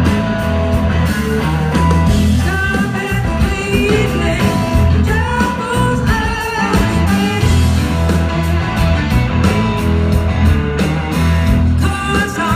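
Live blues-rock band playing an instrumental: an electric guitar melody sliding and bending in pitch over steady bass and drums.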